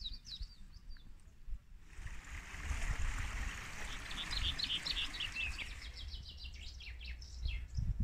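Birdsong over the steady rush of a shallow stream: a few short high chirps, then about halfway through a fast run of repeated notes that falls in pitch.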